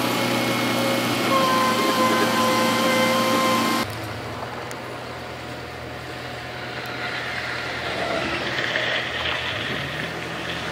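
Heavy diesel earthmoving machinery running: a steady engine note for about four seconds, then an abrupt switch to a different engine sound that swells near the end.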